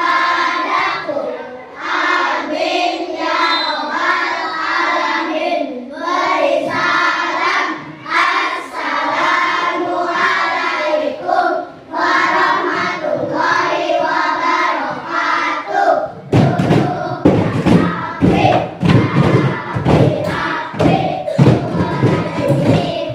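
A class of children chanting or singing together in unison. About sixteen seconds in the voices give way to a rapid run of thumps and claps.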